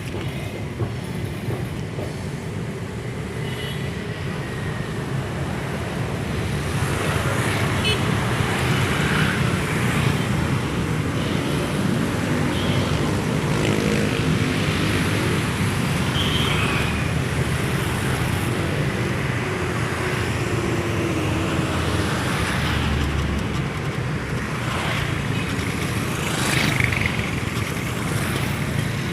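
Steady road traffic noise, getting a little louder about a quarter of the way in.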